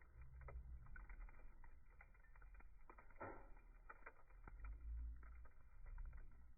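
Wood fire crackling faintly, with irregular small pops and a slightly louder crackle about three seconds in, over a low rumble.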